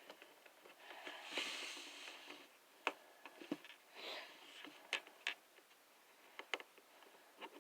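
Plastic action figure being handled and posed: soft rustling of fingers on the figure, and a handful of small, sharp, separate clicks as its plastic joints are moved.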